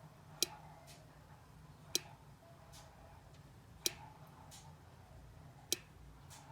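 Faint clicking from a 1987 Jeep YJ that won't start: four sharp clicks, roughly one every two seconds, each followed by a softer click, over a low steady hum. The owner hears the clicking in the distributor cap, and the starter solenoid is not engaging, so the engine doesn't crank.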